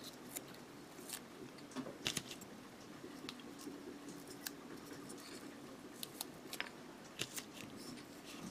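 Faint irregular clicks and crinkles of masking tape being peeled off a painted plastic model kit part and the part being handled.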